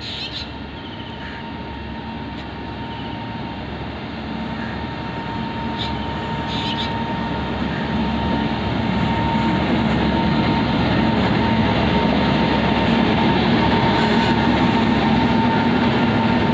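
Vaigai Superfast Express passenger train running slowly through a station, a steady rumble with a faint hum that grows steadily louder as the train draws nearer.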